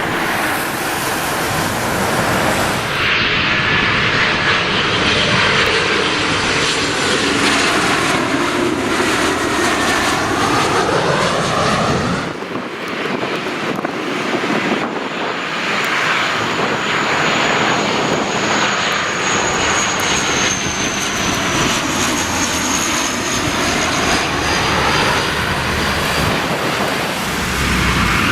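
Jet airliner engines roaring as aircraft pass close by, with a sweeping, phasing whoosh and a high engine whine that slowly falls in pitch. The sound changes abruptly about 3 and 12 seconds in.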